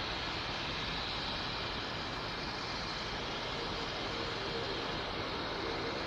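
Airbus A380 jet engines heard as a steady rushing noise on arrival, with a faint whine coming in about four seconds in.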